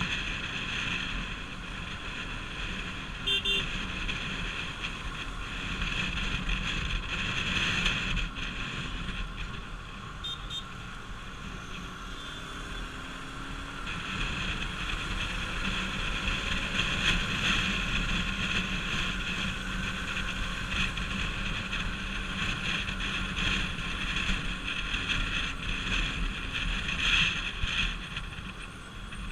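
Bajaj Pulsar RS200's single-cylinder engine running steadily while riding, with wind rushing over the microphone.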